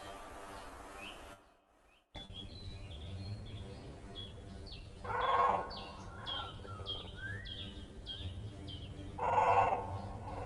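Small birds chirping: a stream of short, high, downward-sliding chirps several times a second, broken by a brief drop-out about a second and a half in. Two louder, harsher calls of about half a second each come about five seconds in and near the end.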